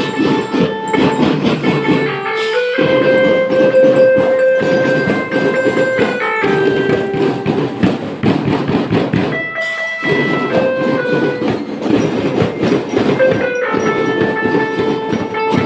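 Marching band playing, brass holding long sustained chords over dense drumming, with short breaks between phrases.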